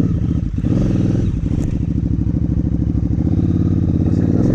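KTM 990 Adventure's V-twin engine idling steadily, revving up near the end.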